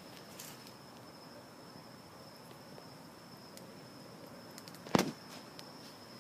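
Insects singing with a steady high-pitched trill, and a single sharp knock about five seconds in.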